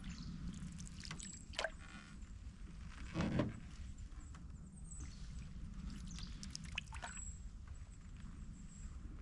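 Canoe paddling on calm water: water dripping and trickling off the paddle, with a few short splashes and one louder paddle stroke about three seconds in.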